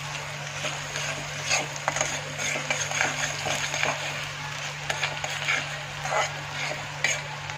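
Chopped onions and garlic sizzling in oil in a steel kadhai, frying until just soft, with a metal spatula scraping and clicking against the pan at irregular moments as they are stirred. A steady low hum runs underneath.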